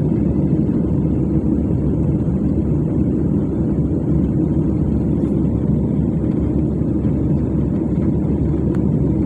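Steady low rumble inside the cabin of an airliner in flight: engine and airflow noise.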